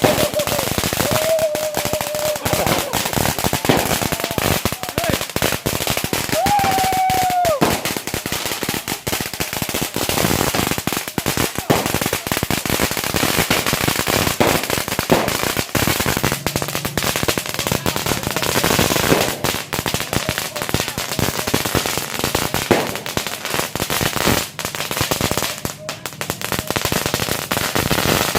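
Firecrackers going off in a rapid, unbroken run of sharp bangs, kept up for the whole stretch.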